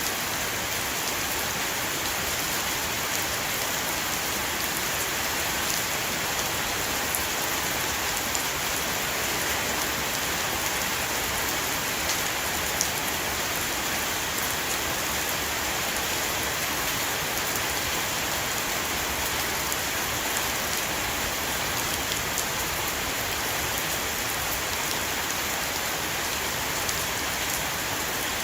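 Steady heavy rain shower falling on a roof, an even hiss with scattered individual drop taps.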